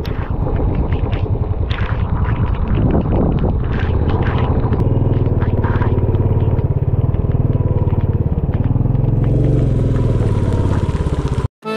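Royal Enfield Bullet's single-cylinder engine running as the motorcycle rides, a steady fast beat of exhaust pulses. It cuts off suddenly near the end.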